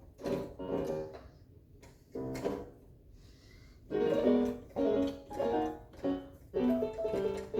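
Electronic keyboard with a piano-like voice, played in short phrases of notes and chords, with a pause of about a second midway.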